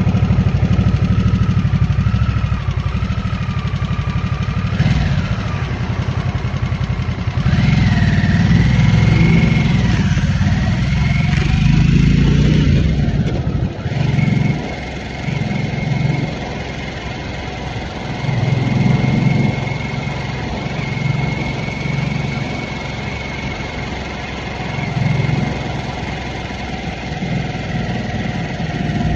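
2023 Harley-Davidson Nightster's 975 cc Revolution Max V-twin running while cruising. It pulls harder for several seconds in the middle, then eases to a lower, uneven throb for the rest.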